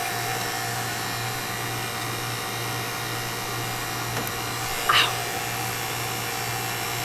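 Refrigeration vacuum pump running steadily, evacuating an air conditioner's refrigerant lines after a TXV replacement. A short sharp clink about five seconds in.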